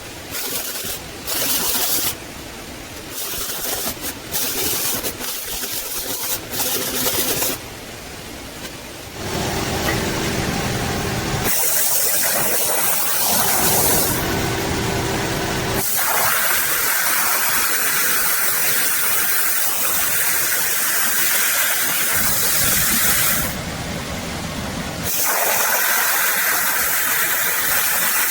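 Metalworking tool noise, hissing and whirring, cut into abrupt segments that start and stop every few seconds, with a longer steady stretch from about ten seconds in.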